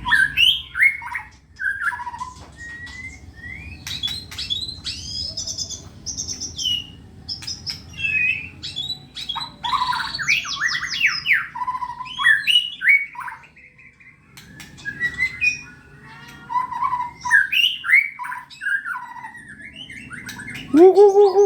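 White-rumped shama (murai batu) singing in full, 'gacor' voice: a long, varied song of loud whistled phrases, rising and falling glides and quick chattering notes, with brief pauses. Near the end it switches to a lower, rapidly pulsing trill.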